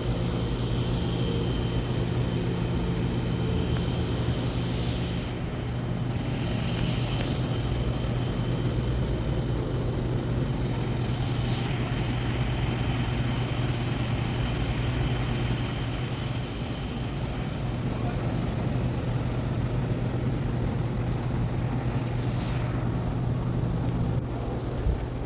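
MIG welder arc crackling steadily as a bead is run around a steel pipe joined to a base plate, over a steady electrical hum.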